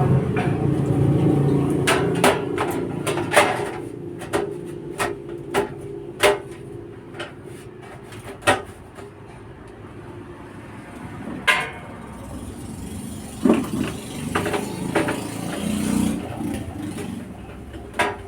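Irregular sharp clicks and knocks of hands and tools at work on an amplifier's casing, about twenty in all and unevenly spaced. Under them a low rumble fades out over the first few seconds.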